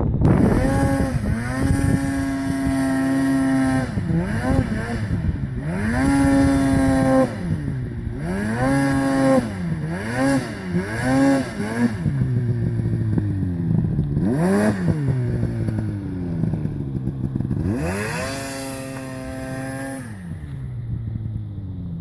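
Snowmobile engine revved up and down over and over in short bursts, each time climbing quickly, holding high for a second or two and dropping back, then settling to lower running near the end.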